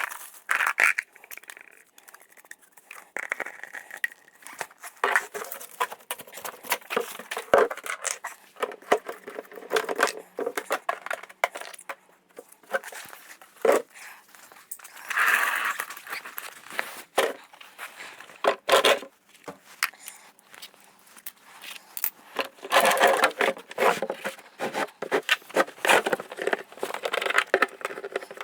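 Irregular scraping, rustling and clattering of objects being handled, with several sharp clicks and knocks scattered through it.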